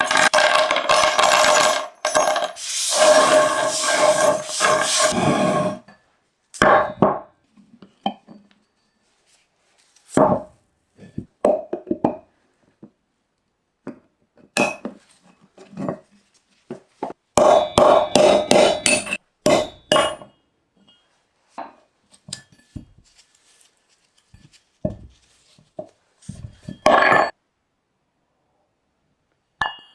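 Workshop work on metal parts: a power tool runs in a few bursts of a few seconds each, with a steady whine, and between them metal parts clink and knock in short separate strikes.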